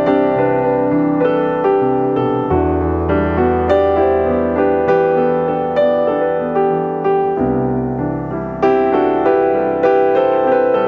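Background piano music: a slow, gentle melody of sustained notes over held bass notes.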